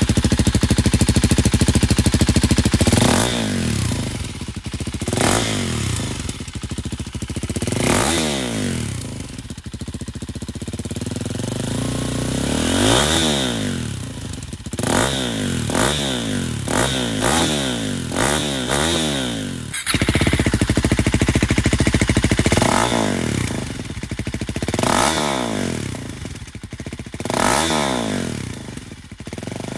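A 2024 KTM Duke 125's single-cylinder four-stroke engine running through an aftermarket GPR exhaust, revved repeatedly. The pitch rises and falls in quick blips, and it is held at high revs for a few seconds near the start and again about two-thirds of the way through.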